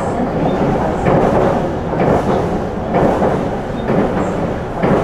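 Running noise inside the vestibule of a JR Central HC85 series hybrid diesel-electric train under way: a steady rumble of wheels on rail and running gear, swelling about once a second.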